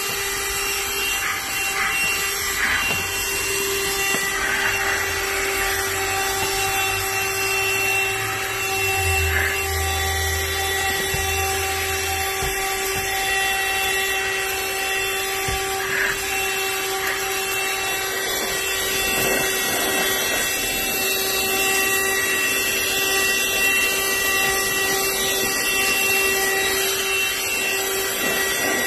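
BLACK+DECKER Dustbuster cordless handheld vacuum running: a steady motor whine over a rushing hiss of air. A few light knocks come through now and then.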